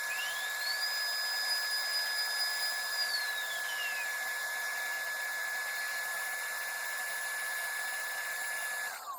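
LPKF ProtoMat S63 circuit-board plotter running with a steady high whine over a hiss. A second, higher whine rises in the first second, holds, and falls away three to four seconds in. Near the end the sound cuts off, its pitch falling as it winds down.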